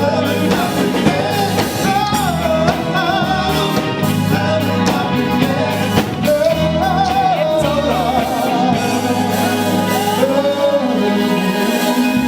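A singer holding a melody line with vibrato over a live band of keyboards and guitar, the music running steadily throughout.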